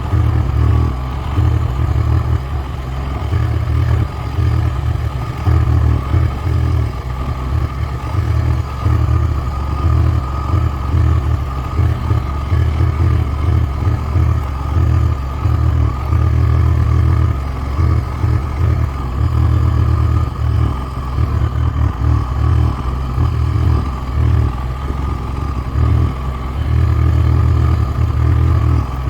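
Four-wheeler (ATV) engine running steadily while riding, with an unsteady low rumble throughout.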